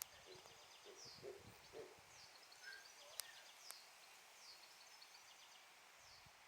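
Faint outdoor ambience with small birds chirping in the background: short, high, falling chirps every second or so, and two sharp clicks a little past the middle.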